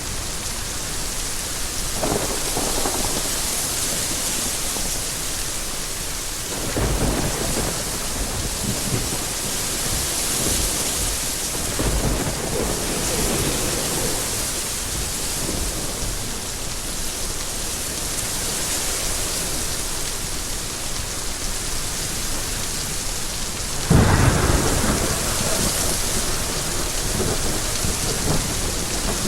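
Steady rain falling in a thunderstorm, with several low rolls of thunder; the loudest thunderclap breaks in suddenly near the end and rumbles on.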